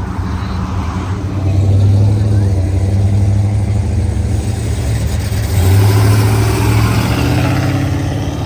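Car engine with a low exhaust rumble accelerating away, swelling louder about one and a half seconds in and again around six seconds in.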